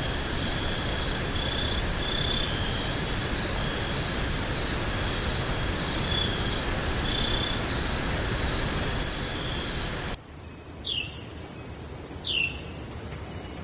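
Forest ambience: a steady rushing background with insects trilling in pulses high up. About ten seconds in it cuts abruptly to a quieter backdrop where a bird gives two short, downward-sliding whistled calls a second and a half apart.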